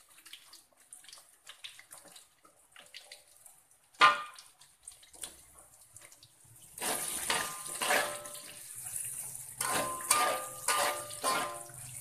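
Sliced ginger frying in hot oil in a metal wok, with a metal spatula knocking and scraping against the pan. A single sharp clank comes about four seconds in; from about seven seconds a loud sizzle sets in, with repeated ringing scrapes of the spatula over it.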